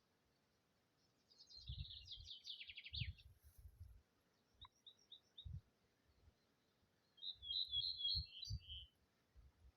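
A small songbird singing: two rapid twittering phrases of high notes, with a few short single notes between them. Low, irregular rumbles run underneath.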